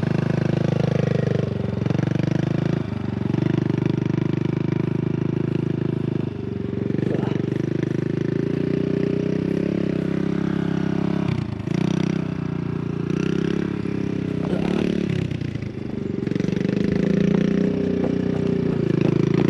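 Dirt bike engine running steadily under throttle while riding, its note dipping briefly several times as the throttle is eased and picked up again.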